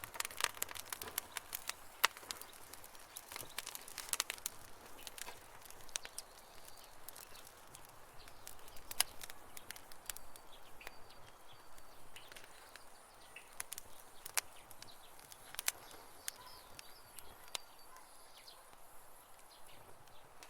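Wood campfire crackling and popping, with irregular sharp pops, thickest in the first few seconds. Faint bird chirps sound in the background from about halfway through.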